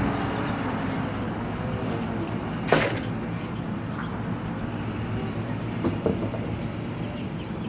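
A vintage sewing machine being handled: a sharp knock about three seconds in and a few lighter knocks later, over a steady background rumble.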